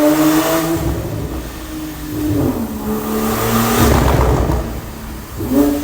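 Porsche 991 Turbo S twin-turbo flat-six through a Kline Inconel exhaust: the revs fall away over the first couple of seconds, hold lower with a rough rumble in the middle, then climb again near the end.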